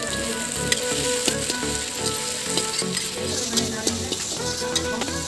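Onions and tomatoes sizzling in hot oil in a steel kadai, with a steel spatula scraping and clicking against the pan now and then as it stirs.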